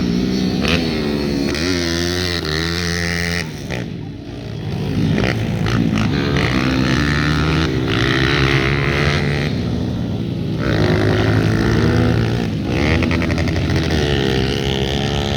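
Several pit bike engines racing, revving up and down as the riders shift and back off, with a brief dip in loudness about four seconds in.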